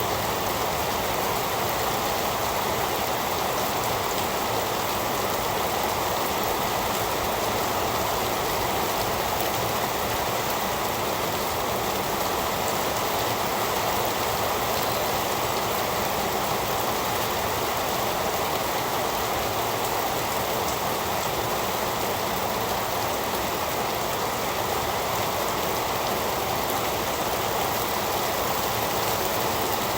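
Steady heavy rain falling, an even continuous rush without thunder or other events.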